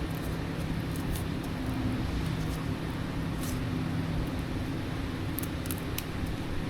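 A motor or machine running steadily with a low hum, with a few faint light clicks.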